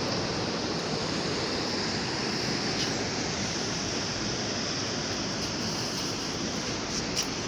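Steady wash of Atlantic surf breaking on the shore, with some wind on the microphone.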